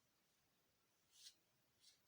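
Faint brush strokes on watercolour paper: two short, scratchy swishes in the second half, over near silence.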